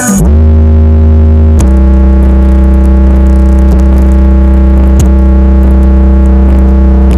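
Very loud, long held synthesizer bass note blasted through a carnival sound-system rig. It slides down just after the start, then drops to a deeper note about one and a half seconds in and holds steady.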